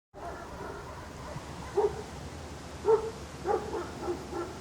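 A dog barking over steady outdoor background noise: one bark about two seconds in, two louder barks a second or so later, then a run of quicker, softer barks near the end.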